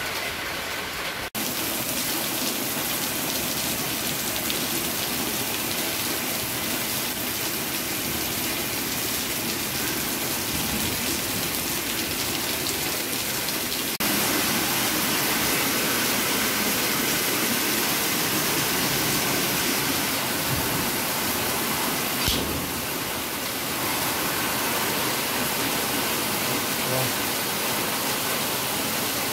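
Heavy rain pouring down: a steady hiss that steps up abruptly about a second in and again about halfway through.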